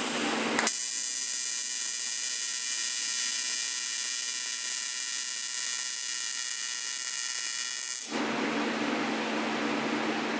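Welding arc buzzing steadily and high-pitched on a blow-off valve adapter. It strikes under a second in and cuts off abruptly about eight seconds in.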